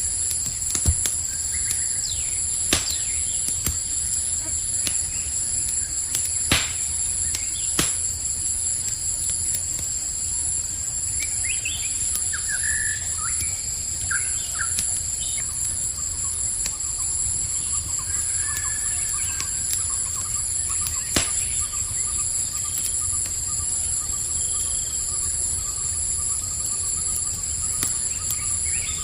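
Campfire crackling, with a steady low rumble and a handful of sharp pops, under a continuous high trilling chorus of crickets. A few short bird chirps come in around the middle.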